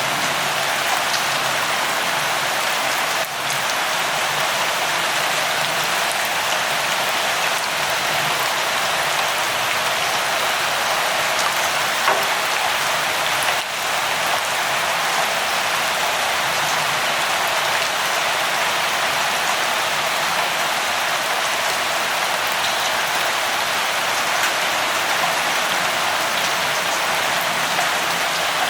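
Steady rainfall, a dense even hiss of drops that dips briefly in level twice.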